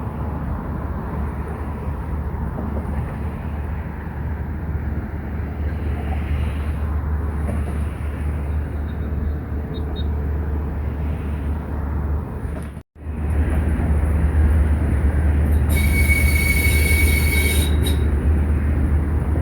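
A rail vehicle running with a steady low rumble. The sound cuts out for an instant about 13 seconds in. About three seconds later a high squeal with a hiss lasts roughly two seconds.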